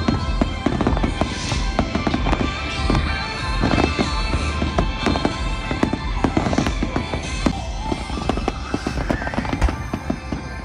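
Fireworks bursting in rapid succession, many bangs and crackles close together, over music played with the show.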